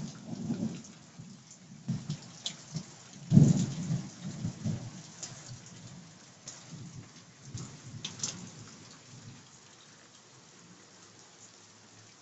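Rain and hail pouring down, with scattered sharp hits and a low rumble about three seconds in that dies away; the downpour grows fainter toward the end.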